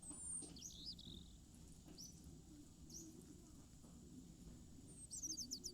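Faint bird chirps: a few single high chirps, then a quick run of about six near the end.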